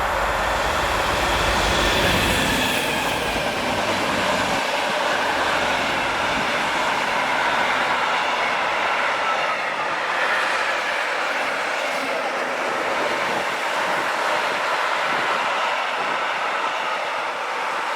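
A train passing close by: a steady, loud rush of wheels on rail, with faint whining tones over it. The deepest rumble fades about four seconds in, while the rushing carries on.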